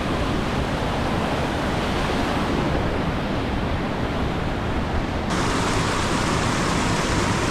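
Waterfall rushing: a steady roar of falling water, turning hissier and brighter suddenly about five seconds in.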